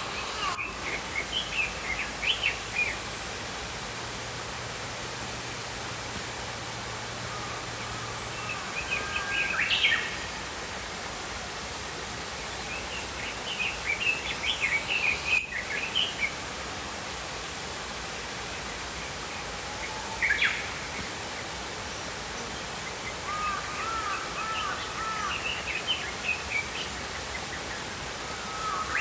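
Small songbirds chirping and twittering in several short bursts over the steady rush of a flowing stream.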